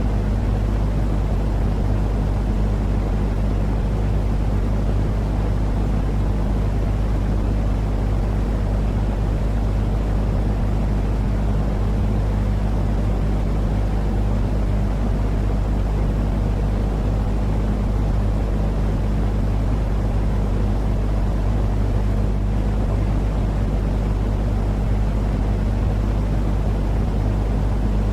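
A steady, unchanging low rumble of noise with a constant low hum running through it, played as a looped soothing sleep noise for a baby.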